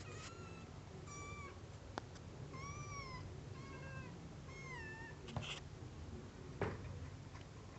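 Newborn kitten mewing: about four short, high-pitched mews with a wavering pitch in the first five seconds. A few soft clicks and one louder knock come in the second half.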